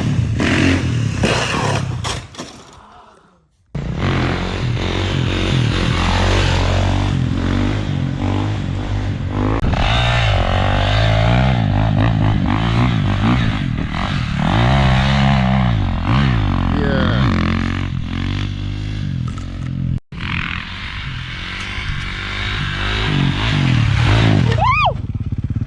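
Kawasaki KX450 dirt bike's single-cylinder four-stroke engine revving and running, in edited clips that cut off abruptly about four seconds in and again about twenty seconds in.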